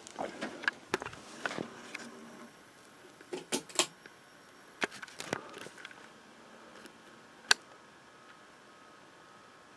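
A run of irregular clicks and knocks over a faint steady hum, with one sharp click about seven and a half seconds in, after which only the hum is left.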